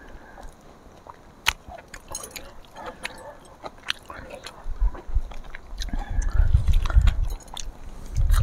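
People eating by hand: scattered crisp bites, clicks and chewing sounds. About halfway through, a low rumble sets in and becomes the loudest sound.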